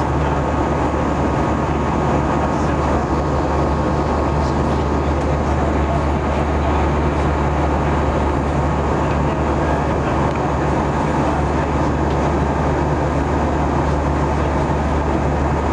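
Steady cabin noise of a jet airliner climbing out after take-off: an even rush of engine and airflow noise with a low steady hum underneath.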